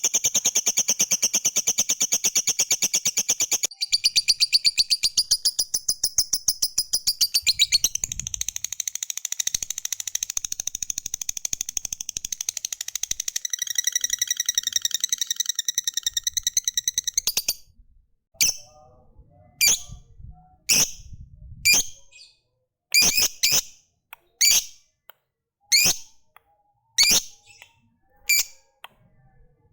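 Lovebird giving its long, rapid chattering trill ("ngekek panjang"), the notes coming very fast and high for about seventeen seconds. It then breaks off into single sharp chirps about once a second.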